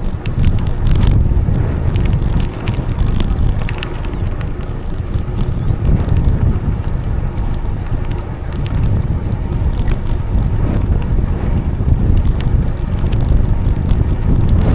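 Bicycle riding along a path: steady tyre rumble and wind buffeting the microphone, with small clicks and rattles from the bike.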